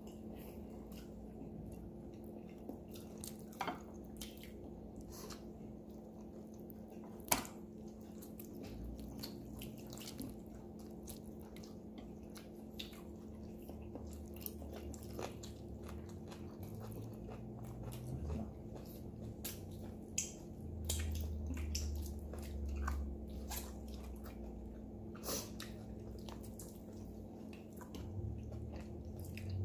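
Faint, close-up eating sounds: a person chewing roasted Cornish hen and pulling the meat apart by hand, with many small scattered wet mouth and finger clicks, over a steady low hum.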